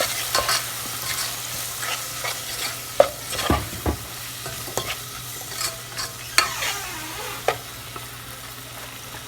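Onions, capsicum and chilli frying in a pan with soy sauce and ketchup, stirred and sautéed: a steady sizzle with scattered scrapes and knocks against the pan, the loudest about three seconds in and again a little past six seconds.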